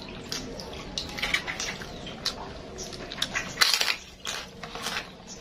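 Close-up eating sounds: wet chewing and lip smacking with small clicks, then a loud crunch about three and a half seconds in as a fried kerupuk cracker is bitten, followed by crunchy chewing.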